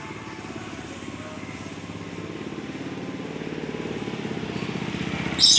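A steady, pulsing engine-like rumble, motorcycle-like, grows gradually louder; near the end a bird gives one sudden, loud, harsh high-pitched screech.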